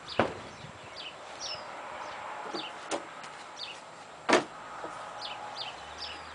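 A small bird chirping over and over in short falling notes, with a few sharp knocks of a plywood panel being handled on a wooden workbench, the loudest about four seconds in.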